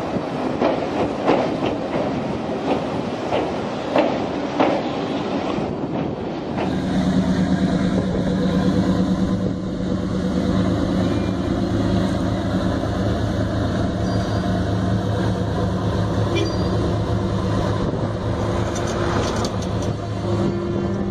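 Passenger train running over a rail bridge, its wheels clattering over the rail joints for about six seconds. Then a steady low engine drone takes over and continues.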